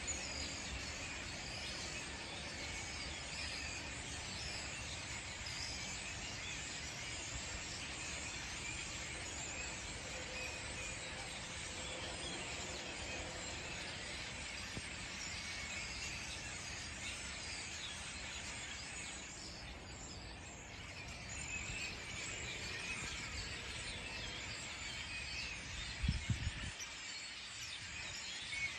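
A large flock of European starlings chattering and whistling together in a tree, a dense, unbroken mass of overlapping calls. A few low thumps come near the end.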